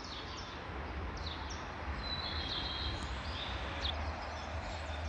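Small birds calling with short, high, falling chirps and a held high note about two seconds in, over a steady background hiss and a low rumble.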